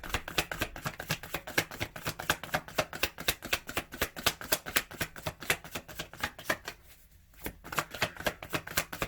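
A tarot deck being shuffled by hand: a quick, even run of papery card flicks that stops briefly about seven seconds in, then starts again.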